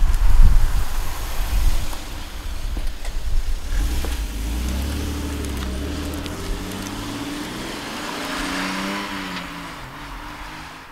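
1994 Toyota Supra Twin Turbo's 2JZ-GTE twin-turbo inline-six driving past: a loud low engine and exhaust rumble as it passes close in the first couple of seconds. As it pulls away the engine note rises and falls, and the car fades into the distance.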